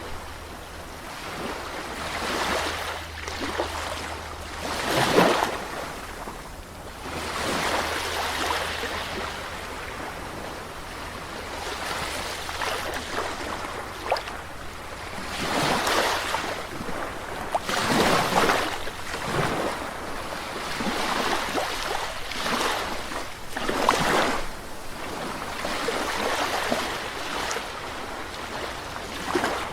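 Sea waves breaking and washing on a shore, the surf swelling and falling back every few seconds, with a few stronger breakers.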